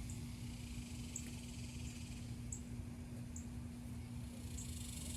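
Evening insect chorus of cicadas, a steady high drone with short high chirps about once a second, over a low rumble.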